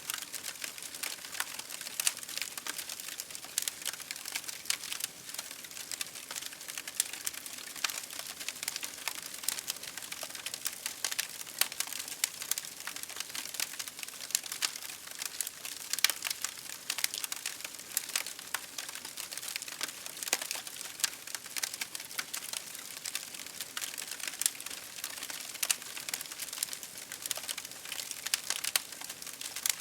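Campfire crackling: a steady run of sharp, irregular pops and snaps over a soft hiss of burning wood.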